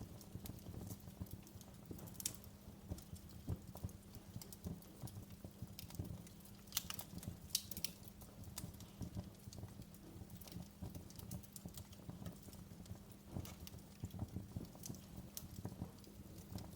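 Wood fire crackling in a fireplace: an irregular run of small pops and snaps over a low rumble of the flames, with a few sharper pops about seven seconds in.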